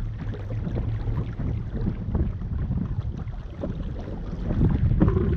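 Wind buffeting the microphone over the rush and splash of water along the hull of a small RS Zest sailing dinghy under way, swelling a little near the end.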